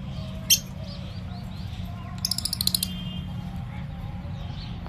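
Pet birds calling: one sharp, shrill call about half a second in, then a quick run of about ten rapid chirps a little past the two-second mark, over a steady low hum.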